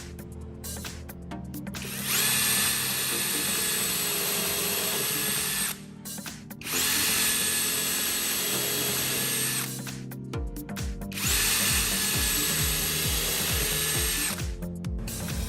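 An electric power tool runs three times in a row, each run lasting about three and a half seconds with a steady high whine, with short pauses between. Background music plays underneath.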